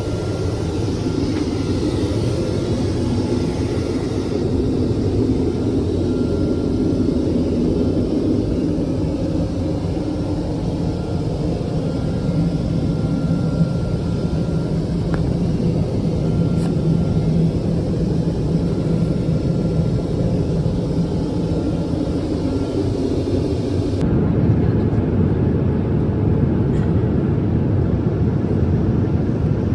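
Steady low rumble of a Boeing 787-10 jet airliner heard from inside the cabin: engine and airflow noise. The sound changes abruptly twice, about four seconds in and again near the end.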